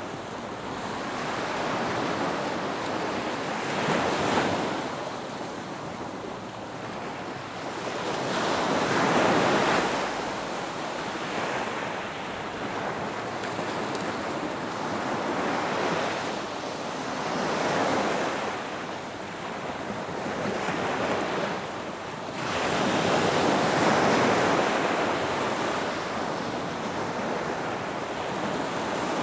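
Ocean surf: waves breaking and washing up the shore one after another, a hiss that swells and fades every few seconds, with wind on the microphone.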